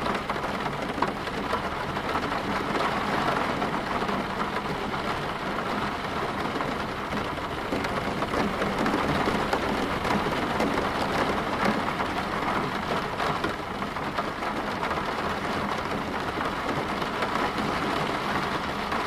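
Steady rain, a rain-sound recording laid over a subliminal track to mask its hidden affirmations.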